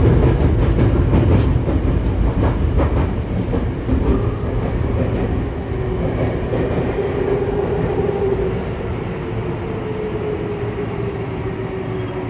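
Saitama Railway 2000 series electric train slowing into a station on an underground line, heard from inside the car: rumbling with a few clicks from the wheels early on. Its motor whine falls slowly in pitch through the second half as it brakes, and the sound grows quieter.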